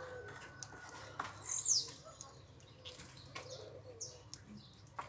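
Parrots: a loud, short, high chirp sliding down in pitch about a second and a half in, and a fainter high call later, over scattered sharp clicks.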